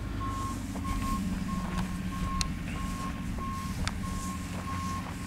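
A backup alarm beeping steadily, about one and a half beeps a second, over a low engine rumble, with two sharp clicks in between.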